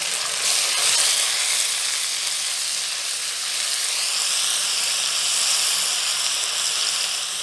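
Ginger-garlic paste and browned onions sizzling in hot oil in a wok while a spatula stirs them. The hiss grows stronger about four seconds in.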